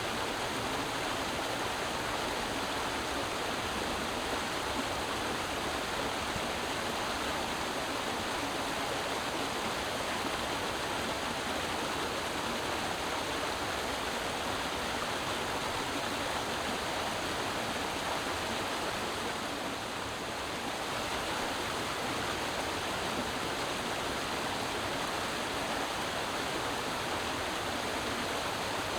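Creek water running steadily over rocks, an even rushing and babbling that dips slightly about two-thirds of the way through.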